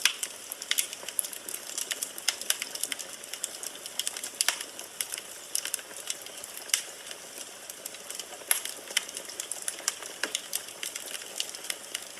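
Wood fire burning in a fireplace: logs crackling and popping in quick, irregular sharp snaps over a steady soft hiss.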